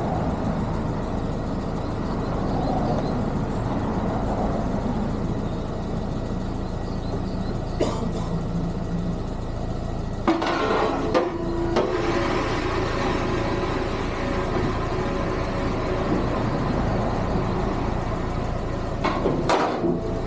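A vehicle engine running steadily at a low idle. A few short knocks and bursts of noise come through around the middle and near the end.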